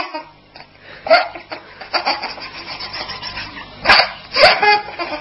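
Baby laughing in short, loud bursts, the strongest two coming close together near the end.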